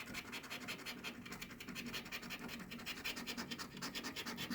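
A scratch-off lottery ticket being scratched off in quick, even scraping strokes, several a second, as the coating is rubbed off the winning-numbers area.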